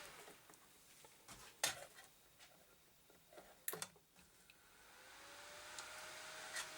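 A computer fan's whine cuts off with a click. A couple of sharp clicks follow, then the fan spins back up, its whine rising in pitch and level near the end. It sounds like the motherboard powering off and on by itself, which the owner calls misbehaving.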